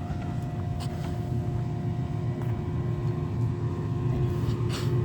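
Garbage truck's diesel engine idling while stopped: a steady low rumble with a constant whine above it, and a couple of faint clicks.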